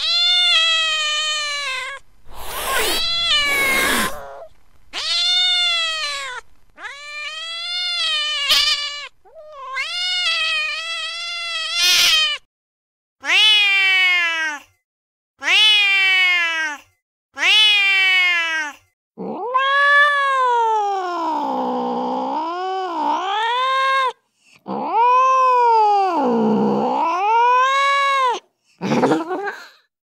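Recorded angry domestic cats yowling and caterwauling, one clip after another. It begins with a string of drawn-out yowls, each rising and then falling in pitch, and a harsh noisy burst a few seconds in. In the second half come longer, lower caterwauls that waver down and up.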